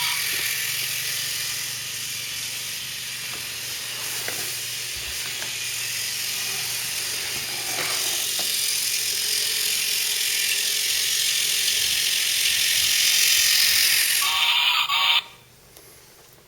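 Small battery-powered plastic toy train's electric motor and gears whirring steadily as it runs along its plastic track, growing louder, then cutting off suddenly near the end as the motor stops: the train has reached its station.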